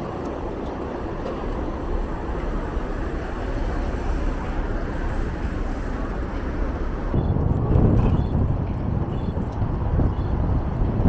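Steady city traffic noise heard from a moving bicycle, with a gusty low rumble of wind on the microphone growing louder about seven seconds in.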